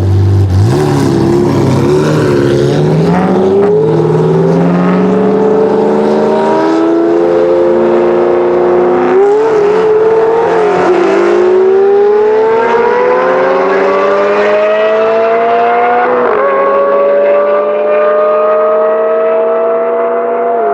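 Lamborghini Murcielago LP640's V12 with an iPE exhaust accelerating hard through the gears. The engine note climbs steadily, and each of several upshifts briefly drops the pitch before it climbs again.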